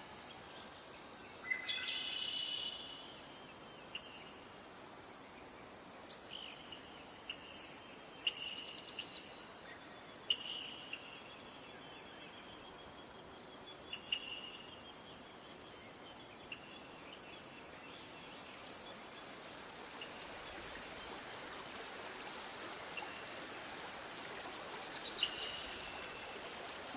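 A steady, high-pitched chorus of insects, with short bird chirps now and then. A quick trill comes about eight seconds in and another near the end.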